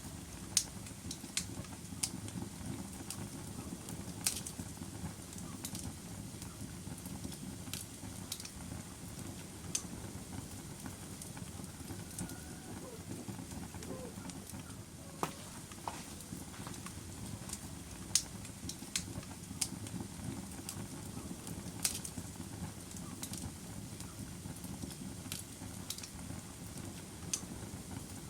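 Log fire burning in a fireplace: a steady low rumble of flames with sharp crackles and pops at irregular moments.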